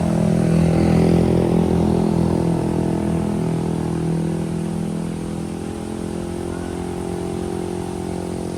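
Vehicle engine running steadily, a low even hum that eases off slightly after a few seconds.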